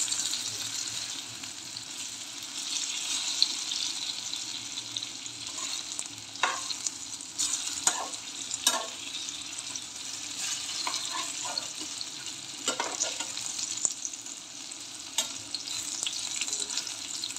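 Batter-coated eggplant slices shallow-frying in hot oil in a metal pan: a steady sizzle, with a metal spatula clicking and scraping against the pan several times as the slices are turned over.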